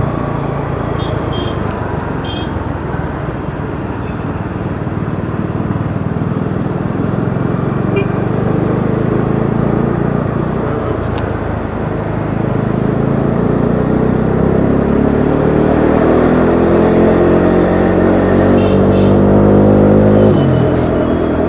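Bajaj Dominar 400's single-cylinder engine under way in traffic: running at a fairly even pace, then pulling with a steadily rising pitch for several seconds before the throttle closes suddenly near the end.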